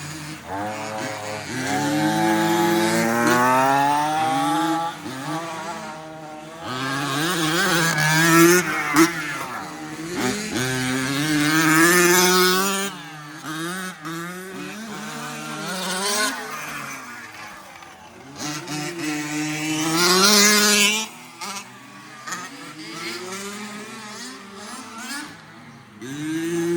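Remote-control 4WD racing trucks' motors revving up and falling away again and again as the trucks accelerate, brake and pass, the pitch sweeping up and down throughout.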